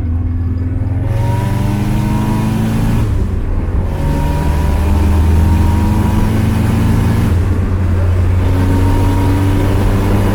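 Turbocharged 1JZ-GTE VVT-i inline-six in a Lexus LS400, heard from inside the car, accelerating hard: the engine note climbs steadily in pitch, drops at a gear change about three seconds in, climbs again, and drops at a second shift about seven seconds in before pulling once more.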